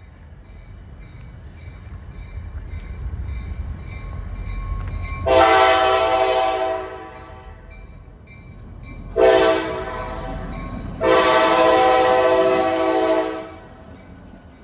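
Diesel locomotive horn, likely on a KCS GP40-3, sounding one long blast, a short blast, then a longer blast. Under it, the low rumble of the approaching train builds before the first blast.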